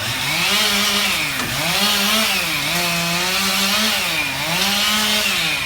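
Two-stroke chainsaw at full throttle, its pitch dipping three times as the throttle eases and climbing back up, then falling away as it is let off near the end.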